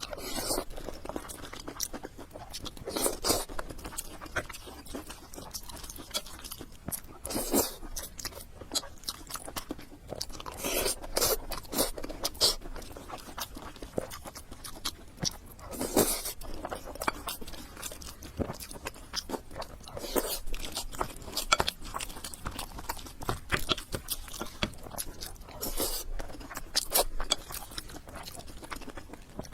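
A person chewing and crunching food, with irregular sharp crunches in clusters every second or two.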